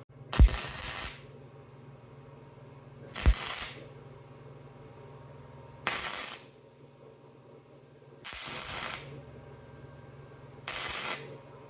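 Electric welder laying short spot welds: five brief bursts of crackling arc hiss about every two and a half seconds, the first two starting with a sharp crack as the arc strikes, with a steady low hum between them.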